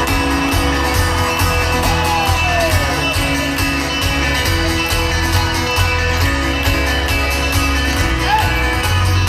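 Live folk-rock band playing an instrumental passage: strummed acoustic guitar and banjo over a steady kick-drum beat, recorded loud from the audience at a festival show.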